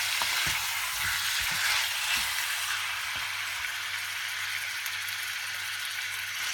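Chicken pieces and sliced onions sizzle steadily in a wok over high heat as the chicken's water cooks off. A wooden spatula stirs and knocks against the wok a few times in the first few seconds.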